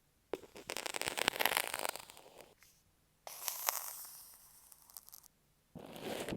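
Three bursts of close, crackly scratching and rubbing right on an earphone microphone as objects are worked against it, the first and longest burst the loudest.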